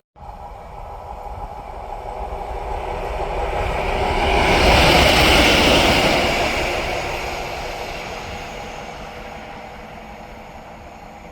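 Train passing by on the track, growing louder to its loudest about five seconds in and then fading away.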